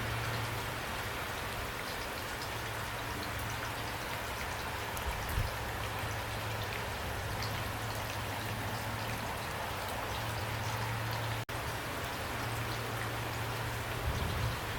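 Heavy rain pouring steadily, with individual drops ticking through it. The sound cuts out for an instant about three-quarters of the way through.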